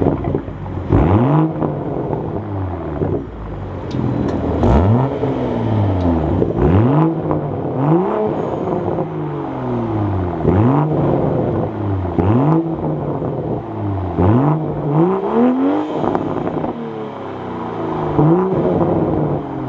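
Toyota GR Supra (A90) on an MBRP cat-back exhaust, revved in about ten quick blips. Each one rises sharply and falls back over a second or so, with a deep note.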